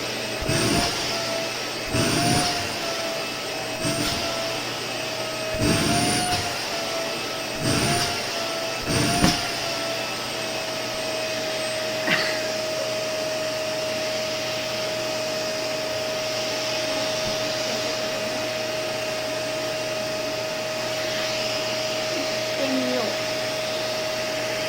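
Vacuum cleaner running with a steady motor whine as its nozzle is worked over a cushion: for the first ten seconds or so a short rush of suction comes about every two seconds, the motor pitch bobbing slightly with each stroke, then it runs on evenly.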